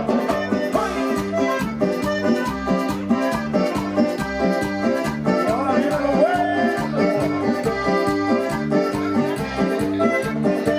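Live dance band music with a steady, even beat and an accordion-like lead melody.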